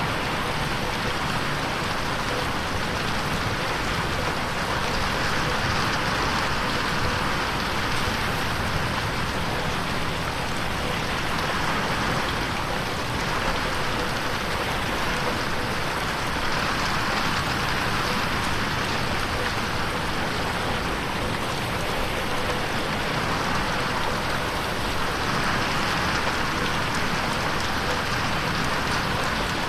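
Steady rain pattering on a window pane, a dense even hiss that swells and eases slightly every few seconds. It is mixed as 8D audio, panned to move around the listener.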